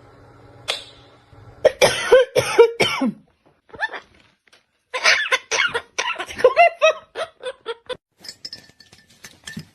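A parrot making a series of short, raspy, pitched calls in two bursts, with a few faint clicks near the end.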